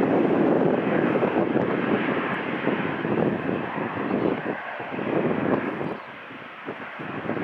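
Airliner engines running, a loud, steady rush that drops away for about a second near the end before building again.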